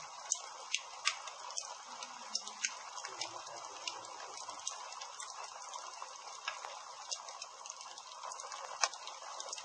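Wood campfire crackling: a steady hiss of burning with irregular sharp pops and snaps, the loudest pop near the end.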